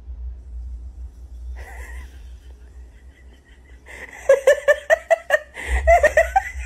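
Two runs of quick, laugh-like vocal pulses, about six a second, starting about four seconds in.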